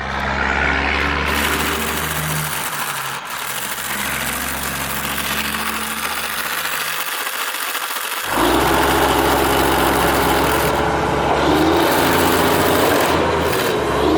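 Small electric motors and gearboxes of radio-controlled model construction machines running, with sand scraping. About 8 seconds in, a louder, steady motor whine starts.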